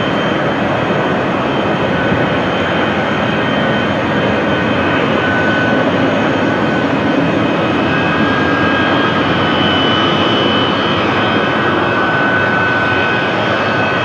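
Jet airliner engines running: a steady, dense rushing noise with faint high whining tones that shift slightly in pitch.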